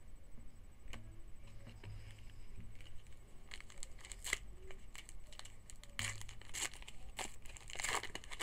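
A 2011 Topps Rising Rookies card pack's wrapper being torn open and crinkled, with scattered clicks and rustles that are thickest near the end.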